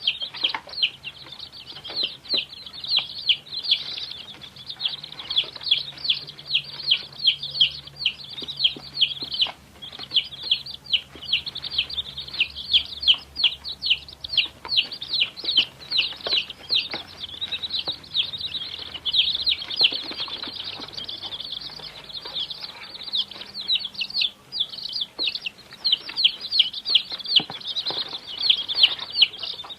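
A brood of baby chicks peeping continuously: short, high-pitched cheeps, several a second, many overlapping.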